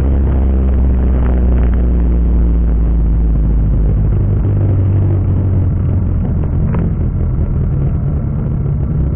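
Turbocharged Toyota Vitz RS engine heard from inside the cabin, droning low and steady at low revs. About halfway through the drone turns rougher and eases off a little.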